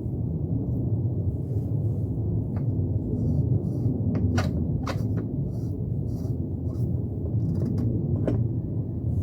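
A steady low rumble with a few sharp clicks and knocks, the two loudest close together about four and a half seconds in.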